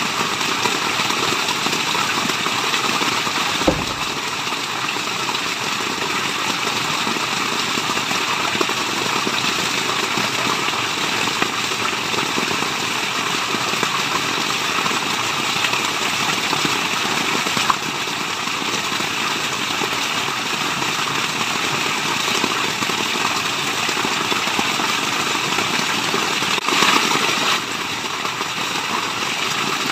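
Waterfall: steady, dense rushing of falling water, with a few brief clicks, one about four seconds in.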